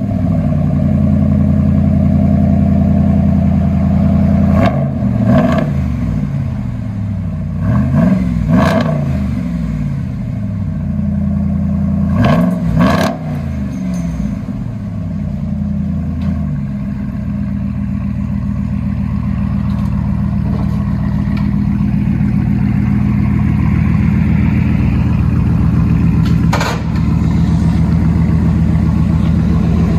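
Ram 1500's 5.7-litre Hemi V8 through a Carven TR performance muffler, Y-pipe and dual tailpipes, running with three short revs about 5, 8 and 13 seconds in, then running steadily.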